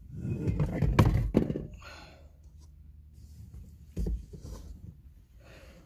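Objects being handled and moved about inside a small car's cabin. A quick run of knocks and thunks comes first, the loudest about a second in, followed by rustling and one more knock about four seconds in.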